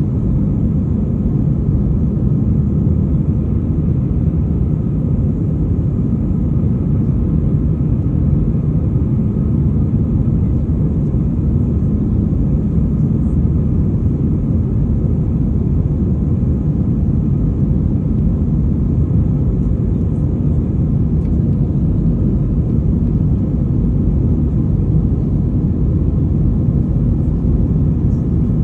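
Jet airliner JA25JJ running in a steady low rumble of engines and airflow, unchanging in level and pitch.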